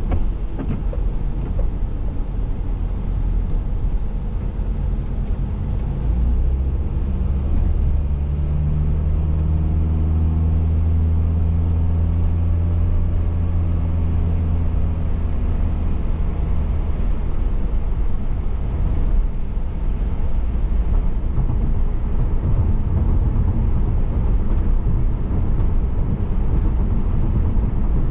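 Steady road and tyre noise heard from inside a car driving on a wet road. A low engine hum swells in the middle and then fades.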